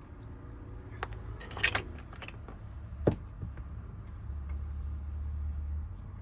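Small metal lock parts clicking and tapping as wafers are picked out of a Honda door lock cylinder, a handful of sharp clicks with a quick cluster near the middle, over a steady low hum.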